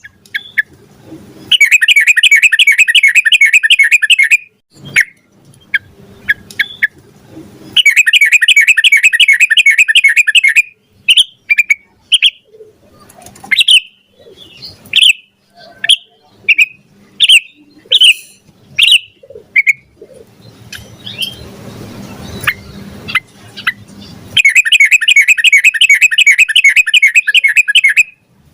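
Yellow-vented bulbul (trucukan) singing loudly: three long, rapid rolling runs of repeated notes (the 'ropel panjang'), with short single chirps scattered between them.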